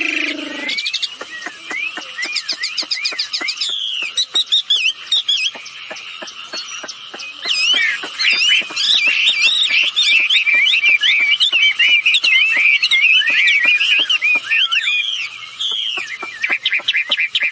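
Wambi bird singing: a long, varied run of quick whistled notes that slide up and down, with bursts of rapid trills, fullest in the middle. A steady patter of faint ticks runs underneath.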